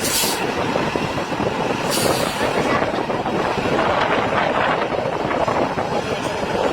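Heavy truck running at speed, a loud steady rush of engine and road noise, with two short hisses about two seconds apart.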